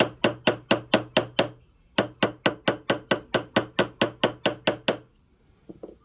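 Ball peen hammer tapping an 18 karat gold ring on a steel ring mandrel to round and size it: quick, even, ringing metal taps about four a second. There is a run of about seven taps, a short pause about two seconds in, then a longer run of about fourteen, with two faint knocks near the end.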